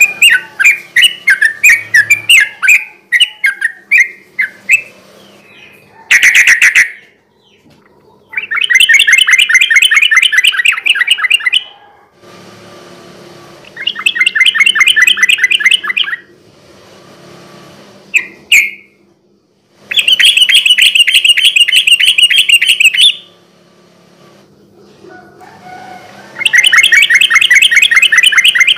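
Yellow-vented bulbul (trucukan) singing loudly. A run of short chattering notes opens the passage, followed by four long, fast rattling trills (the "ropel" song), each lasting two to three seconds with pauses between.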